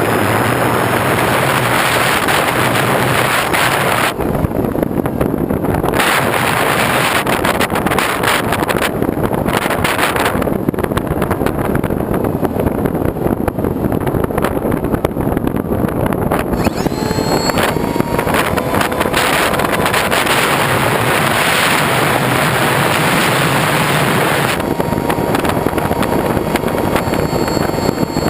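Loud, steady rush of wind buffeting a camera microphone while moving, over the running of a vehicle.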